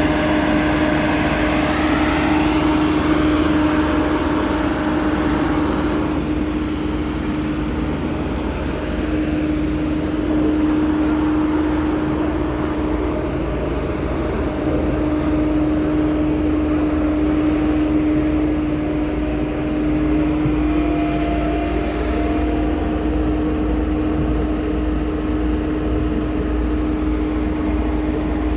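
Diesel engine of a Bomag vibratory roller running steadily under load, with a constant droning tone over a low rumble; the pitch shifts a little in the first few seconds.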